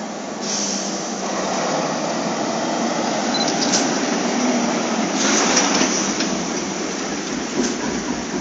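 Heavy road transporter truck hauling a shinkansen car, its engine and tyres giving a steady rumble and hiss that grows louder about half a second in and swells again around five seconds.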